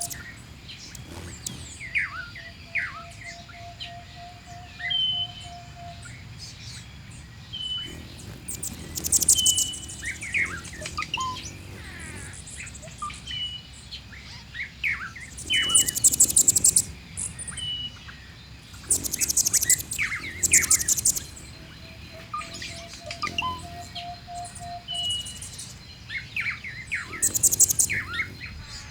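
Mixed birdsong ambiance: several birds calling at once, with a short whistled note repeated every second or two, bursts of high, rapid trills, and a long, level low whistle near the start and again later.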